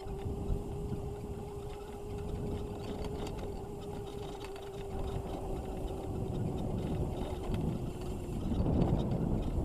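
Razor MX650 electric dirt bike's motor giving a steady whine under way, over a low rumble of tyres and wind. The whine fades out about eight seconds in, and the rumble gets louder near the end.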